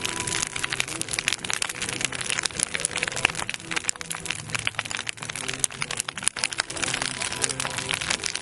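Large wood bonfire crackling and popping, with dense irregular cracks and snaps throughout.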